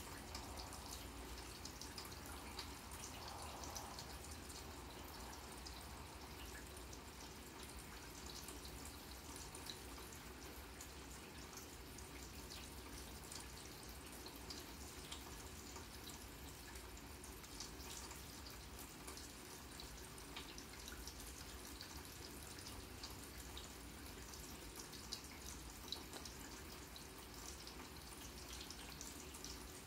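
Rain falling steadily on a grass lawn: a faint, even hiss sprinkled with the small ticks of individual drops.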